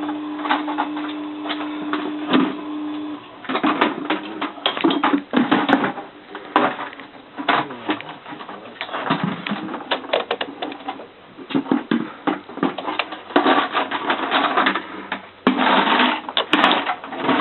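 Bosch WFF2000 washing machine near the end of its cycle: a steady hum for about the first three seconds, then irregular clicking and clattering.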